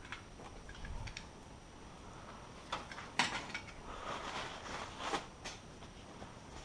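Hand work on brake parts: scattered light metallic clicks and clinks with some rustling, busiest from about three to five and a half seconds in.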